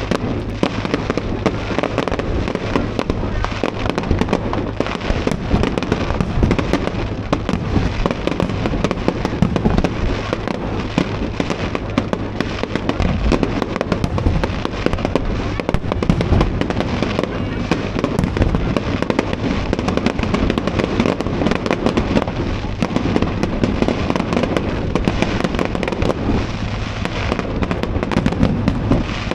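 Fireworks display going off continuously: a dense, unbroken run of bangs and crackles.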